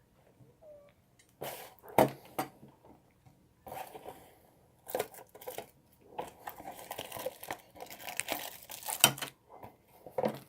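Packaging handled while unboxing a small die-cast metal model airliner: irregular rustling and crinkling of wrapping, with a few sharp clicks and taps. The loudest come about two seconds in and again about nine seconds in.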